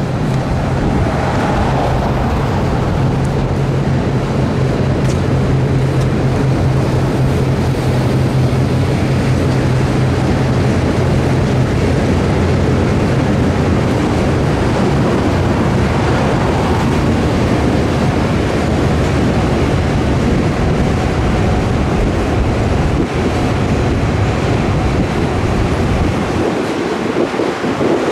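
Diesel-hauled passenger train passing: a steady low locomotive engine hum for roughly the first twelve seconds, over a continuous rushing rumble of the train rolling along the rails.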